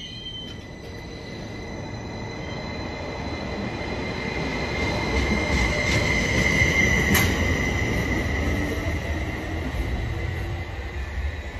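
Greater Anglia Stadler FLIRT multiple unit pulling out of the station and accelerating away. A steady high whine sits over wheel-on-rail rumble, with the motor pitch rising as it gathers speed. It is loudest in the middle, with a sharp click about seven seconds in, then fades as the train moves off.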